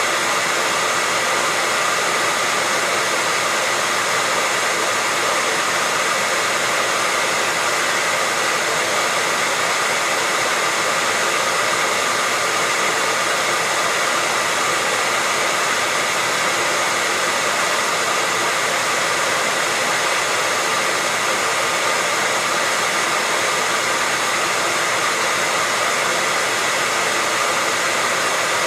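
Hair dryer running steadily: an even rushing of blown air with a faint whine from the motor.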